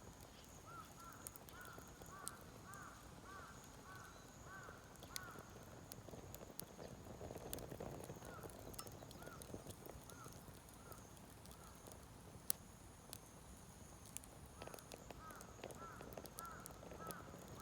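Faint wood fire crackling in a clay shichirin stove, with scattered sharp pops and one louder pop about two-thirds of the way through. A bird calls at the same time in three runs of short, quick, rising-and-falling notes.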